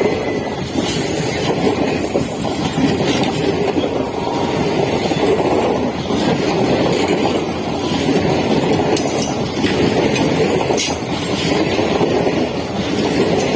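A train running at speed, a loud steady rumble and rattle of wheels on the rails with scattered sharp clicks.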